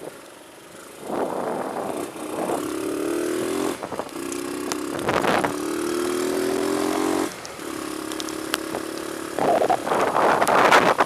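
A small vehicle engine accelerating, its pitch climbing and then dropping back several times as it shifts up through the gears. It is followed by a steadier run and loud bursts of rushing noise near the end.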